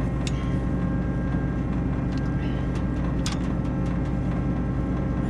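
Combine's diesel engine running steadily, with a few sharp metallic clicks and clanks as the header's single-point hydraulic hookup is undone.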